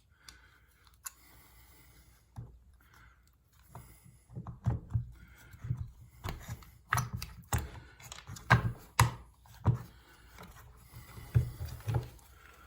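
Parts of a Corvette pop-up headlight assembly being handled and fitted together by hand: irregular clicks and knocks, a few at first, then coming thick and fast from about four seconds in.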